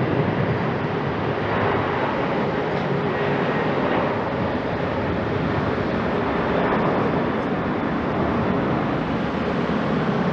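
Boeing 767-300ER jet engines running, a steady roar with a faint steady hum in it and only slight swells in loudness.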